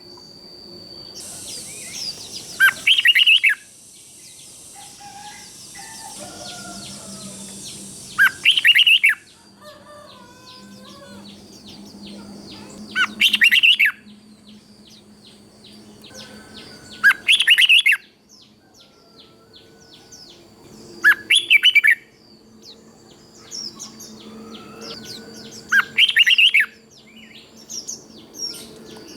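Red-whiskered bulbul singing: six short, loud song phrases, one every four to five seconds, with fainter chirps between them.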